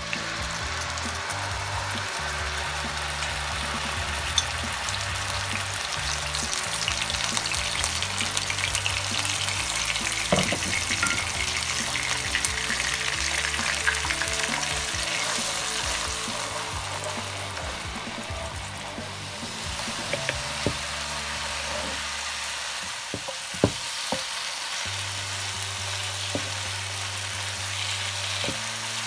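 Ground spice paste sizzling and frying in hot olive oil in an electric skillet, the sizzle starting loud as the paste hits the oil and stirred with a wooden spoon. A few knocks stand out, about ten seconds in and again near the end.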